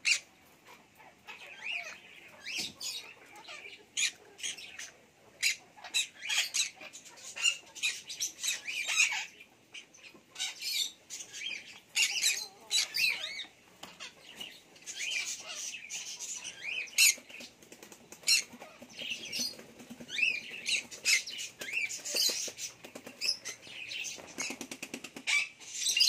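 Caged birds chirping and chattering: many short, high calls in quick succession, mixed with occasional sharp clicks.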